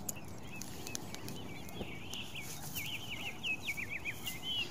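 A small songbird twittering: a quick run of high, chirping notes that gets busier towards the end.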